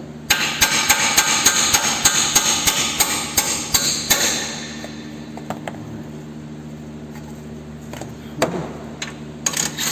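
Hammer blows on a nut threaded flush on the end of a CV axle, driving the axle out of the front wheel hub where its knurled splines hold it stuck. A rapid run of sharp metal strikes, about four a second, lasts about four seconds, followed by a few scattered blows near the end.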